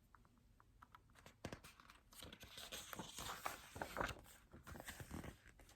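Faint rustling and crackling of paper, a picture book's pages being handled and turned, in irregular small clicks and scrapes.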